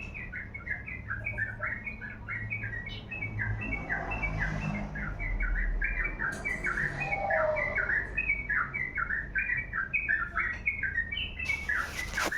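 A small songbird singing a long, unbroken run of short chirping notes, several a second. Near the end there is a brief rustling noise.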